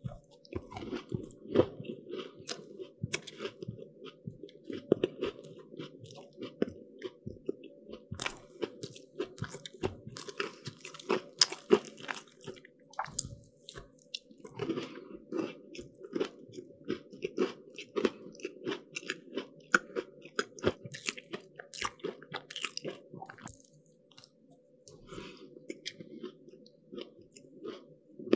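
Close-miked eating of crisp, flaky pastry: repeated crunching and chewing with many sharp crackles, easing off briefly near the end.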